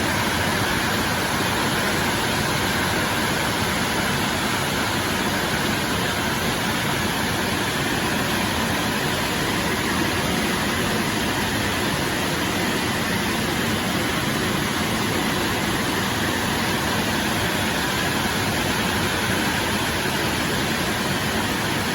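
Steady hiss of heavy rain falling, even and unbroken throughout.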